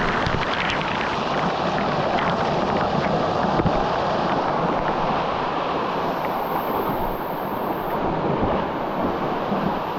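Steady loud rushing of canyon stream water, a continuous even roar with no breaks.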